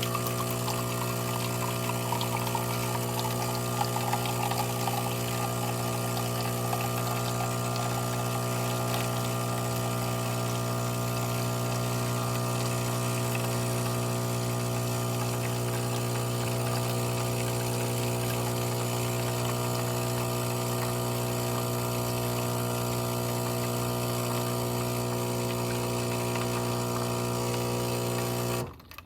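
The pump of a De'Longhi Magnifica Start espresso machine humming steadily at one pitch as it pushes water through, then cutting off suddenly near the end.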